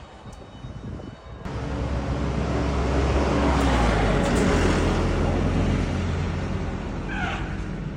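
Heavy truck's diesel engine running: the sound cuts in abruptly about a second and a half in, swells and then eases off. A brief high squeak comes near the end.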